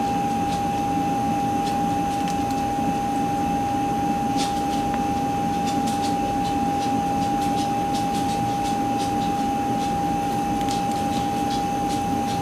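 Battered cicadas frying in hot olive oil in a pan: a steady sizzle with scattered small pops and crackles. A steady high-pitched whine runs under it.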